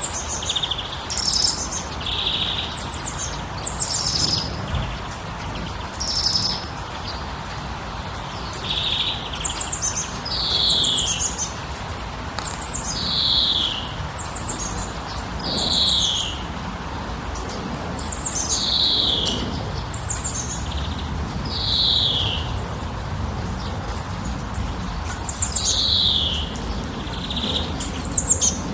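Songbird calling in repeated short phrases: high chirps followed by a quick falling note, every two to three seconds, over a steady low background rush.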